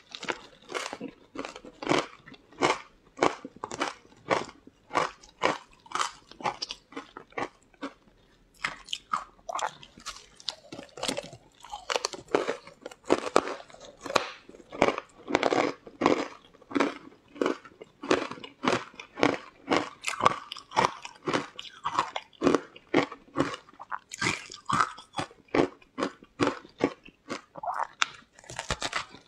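A person biting into and chewing crunchy green chunks close to the microphone: a quick run of crisp crunches, about two a second, with a short lull about eight seconds in.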